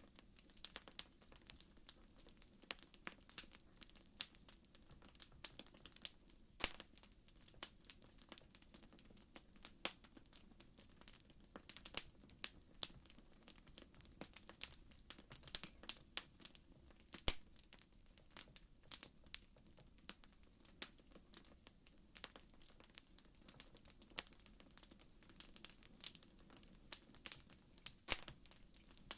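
Wood fire crackling softly: irregular sharp pops and snaps, several a second, over a faint low background hiss.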